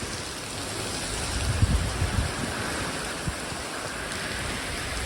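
Heavy rain falling steadily in a strong wind, with a few low buffets of wind gusts about one and a half to two seconds in.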